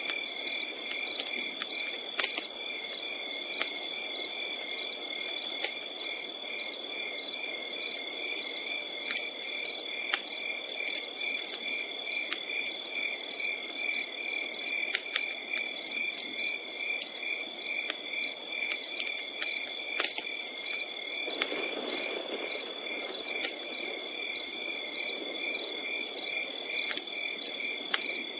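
Crickets chirping steadily: a continuous high trill with regular pulsing chirps. A campfire crackles and pops irregularly underneath, with a soft rush of burning wood.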